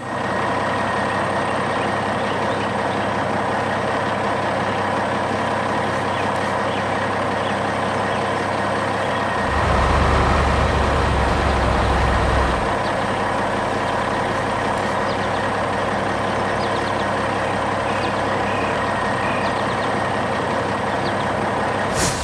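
Heavy construction machinery engine running steadily, with a louder low rumble for about three seconds midway.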